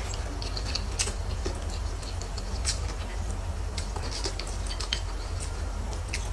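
Close-miked eating sounds: chewing and small wet mouth clicks and smacks, a few every second, as stir-fried tofu and peppers are eaten, over a steady low hum.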